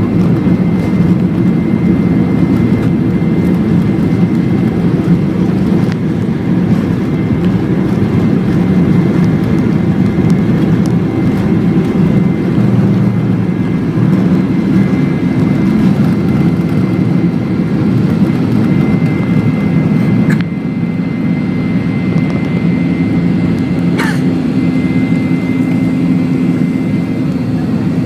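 Boeing 737-8's CFM LEAP-1B jet engines running at high power during takeoff, heard from inside the passenger cabin as a steady loud rumble with a thin high whine. About twenty seconds in the level drops a little, with a brief click, and another click follows a few seconds later.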